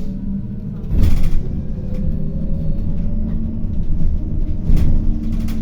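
City bus running in traffic, heard from inside: a steady low rumble with a faint whine slowly rising in pitch, a heavy knock about a second in and a few rattling knocks near the end.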